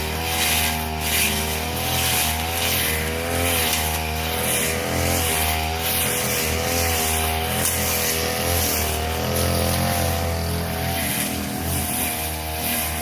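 Brush cutter engine running at high speed while cutting grass. Its pitch wavers slightly as the load changes, with a recurring swish from the blade in the grass.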